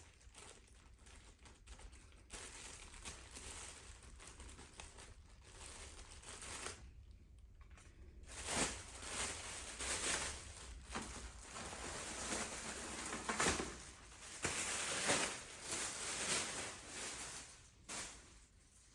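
Packaging and paper being handled: rustling and crinkling, soft at first, then louder with several sharp crinkles in the second half.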